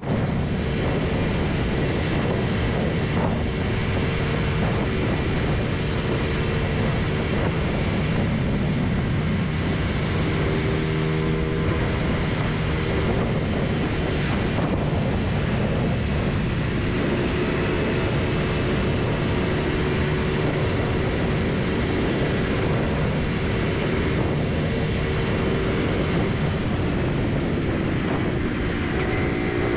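Motorcycle engine running steadily while riding on a road, with road and wind noise. Its pitch shifts a few times, around ten seconds in and near the end.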